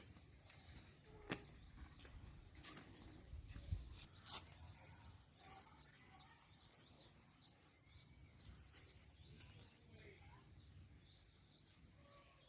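Faint birds chirping, many short high calls repeating throughout, over a low outdoor rumble. A few sharp clicks stand out in the first half.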